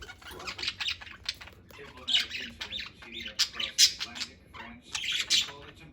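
Pet budgerigars chattering and squawking in quick high bursts of chirps, with the loudest bursts about two seconds and about four to five seconds in.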